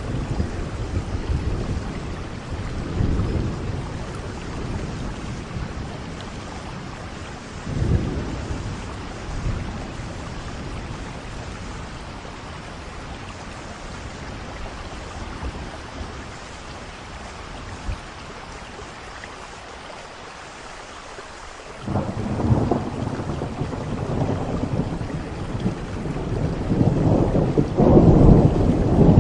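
Steady rain with rolling thunder. Low rumbles come and go several times, a fresh peal breaks in suddenly about three quarters of the way through, and the loudest rumble builds near the end.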